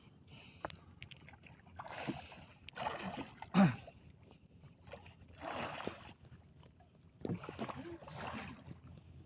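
Water splashing in four short bursts as a fishing net is worked from a small boat, with one sharp knock in the middle.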